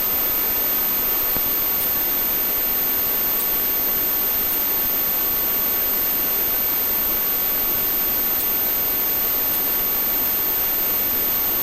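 Steady, even hiss on the police helicopter's radio and intercom audio feed, with a thin high whine above it and no change in level.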